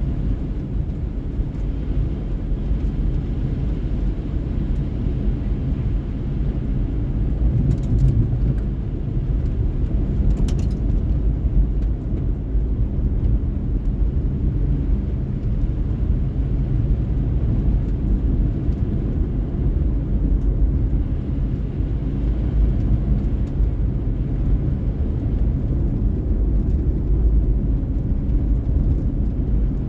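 Car driving at steady speed: a constant low rumble of road and engine noise with no change in pitch, and a couple of faint ticks about eight and ten seconds in.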